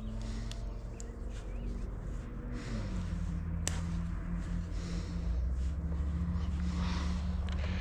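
A steady low machine hum that drops slightly in pitch about three seconds in, with a few sharp clicks over it.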